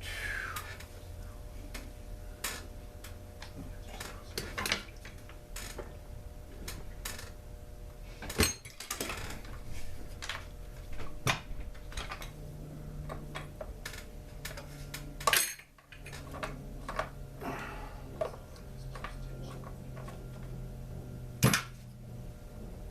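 Small chainsaw parts and a Zama carburetor being handled on a workbench: irregular light clicks, taps and clatter of metal and plastic, with a few louder knocks, over a faint steady hum.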